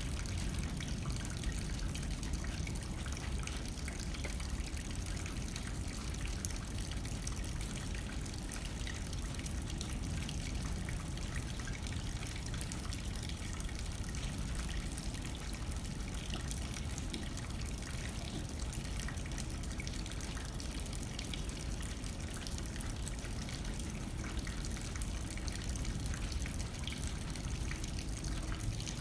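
Steady rain hitting a window, a dense spray of small drop ticks, over the low rumble of light wind.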